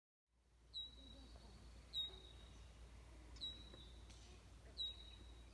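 A bird calling four times, about every second and a half. Each call is a sharp note that settles into a high, steady whistle held for about a second, over a faint low hum.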